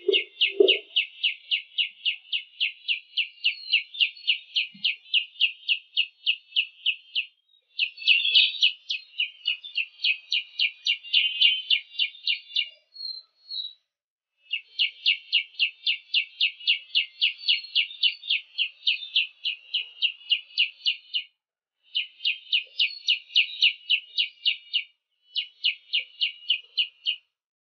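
A bird calling in a rapid, even series of high chirps, about three or four a second, in long runs broken by short pauses, stopping abruptly near the end.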